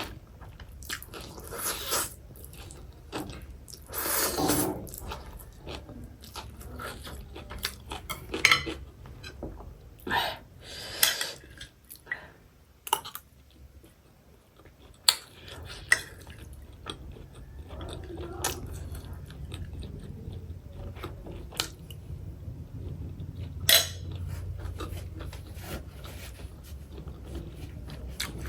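Close-miked eating sounds: irregular chewing, biting and crunching, with occasional clinks of cutlery on dishes.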